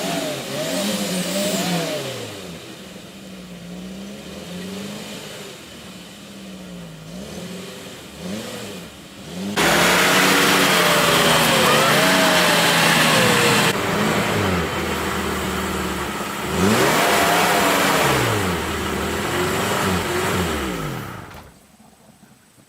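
Pickup truck engine, plausibly the 1986 Nissan Hardbody's, revved up and down repeatedly, with pitch rising and falling in swells. Hardest and loudest from about ten seconds in for several seconds; the sound cuts off shortly before the end.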